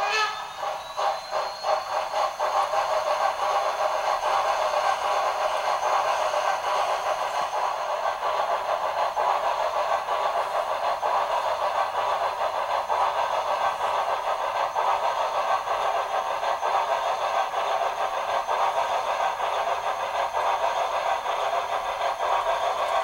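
HO scale Broadway Limited Imports Shay locomotive model running, its LokSound 5 sound decoder playing the rapid, steady exhaust beats of a geared steam locomotive.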